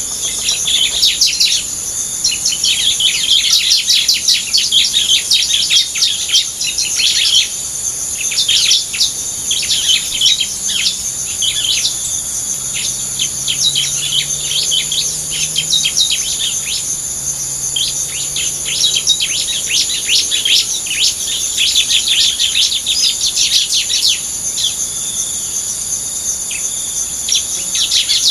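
Small birds chirping in dense, rapid runs of short calls, over a steady high-pitched insect drone.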